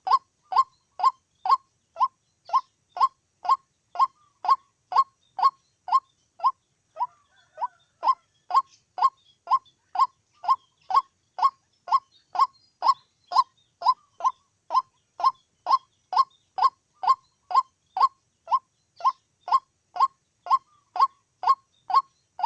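White-breasted waterhen calling: one short, sharp note repeated monotonously, about two a second, with a brief stumble in the rhythm about seven seconds in.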